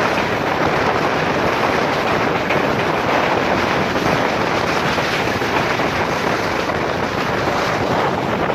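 Express passenger train running at speed, heard from on board as a steady rush of wind and running noise.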